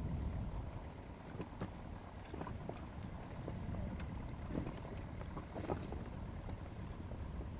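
Low rumbling wind on the microphone, with scattered faint clicks and light knocks.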